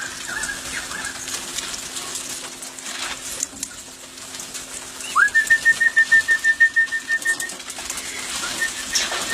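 A bird's alarm call: a rapid string of high, evenly pulsed notes on one pitch, about nine a second, starting with an upward sweep about five seconds in and lasting some two seconds, then coming again more faintly near the end. It is a warning of a raptor overhead, which the listener takes for a wedge-tailed eagle.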